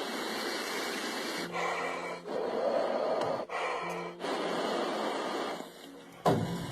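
A man blowing long breaths onto ice to melt it and free a trapped bird: several exhalations, each about a second long, one after another. A short sharp noise comes near the end.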